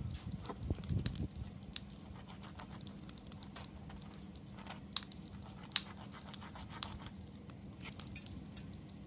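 Wood campfire crackling, with scattered sharp pops; the loudest come about five to six seconds in.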